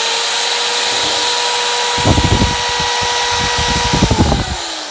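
A handheld high-speed power tool spins up to a steady whine, bites into metal with rough, uneven chatter for about two seconds in the middle, then is let off and winds down near the end.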